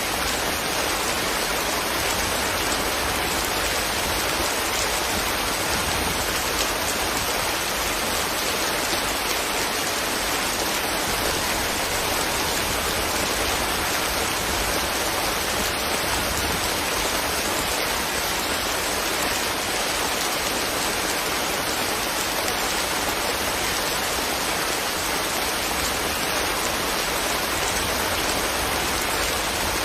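Steady rain falling, an even, unbroken hiss of dense raindrops.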